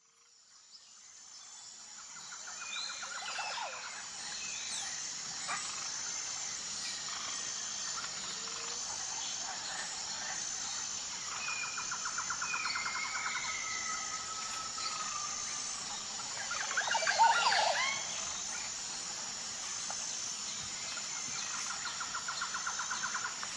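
Birds chirping, trilling and whistling over a steady high-pitched drone, fading in at the start, with a louder flurry of calls about seventeen seconds in.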